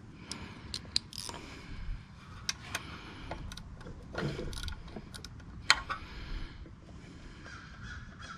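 Hand tools working on a small engine: irregular metal clicks, clinks and short scrapes, with one sharp louder click about two-thirds of the way through.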